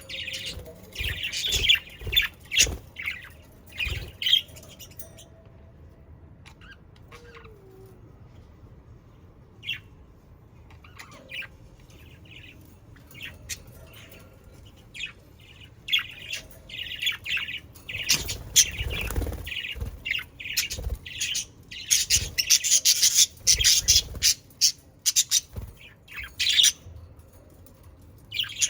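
A flock of budgerigars chirping and squawking: busy chatter at first, a sparser lull of about ten seconds, then dense chirping again through the second half.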